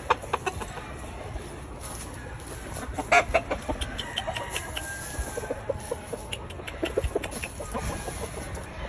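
Chickens, gamefowl of Asil and Kelso type, clucking in short, sharp calls that come in clusters, busiest about three seconds in and again in the second half.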